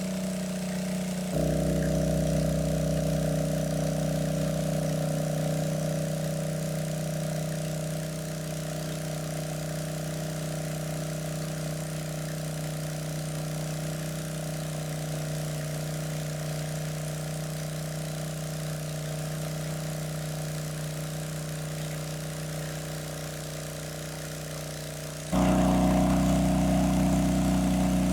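A small engine running steadily at idle, its tone and loudness jumping abruptly about a second in and again near the end.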